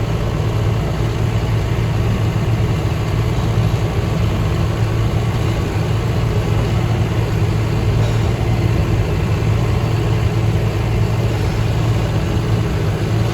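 Farm machine engine running steadily at a constant speed, a loud, even low hum with no change in pitch.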